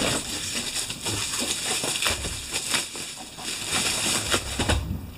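Plastic packaging and bubble wrap crinkling and rustling as items are handled, with many short crackles.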